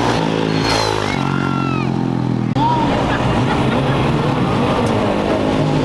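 Off-road racing motorcycle engines running and revving, with voices mixed in. The sound cuts out for an instant about two and a half seconds in.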